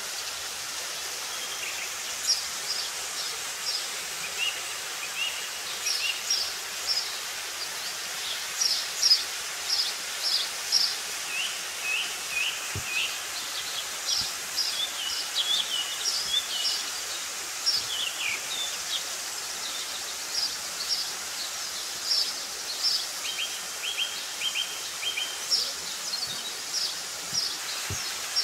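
Small birds chirping and calling again and again, short high notes, some in quick runs of three or four, over a steady hiss.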